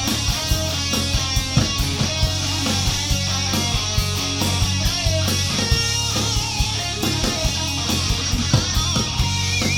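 Live rock band playing an instrumental passage between sung lines: electric guitar over bass and a steady drum beat.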